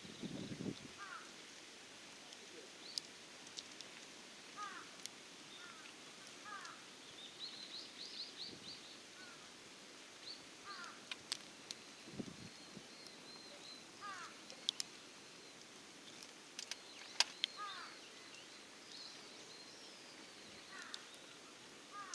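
Small birds calling with short, repeated downward chirps and a quick trill, over a faint steady outdoor hiss, with a scattering of sharp snaps from the burning wood fire.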